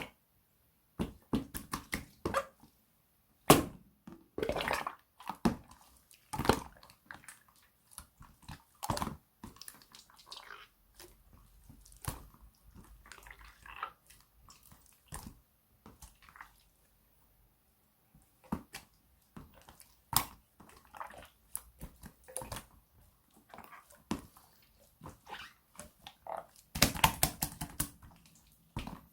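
Slime being squished, stretched and poked by hand, giving irregular wet clicks, pops and crackly bursts with short pauses between.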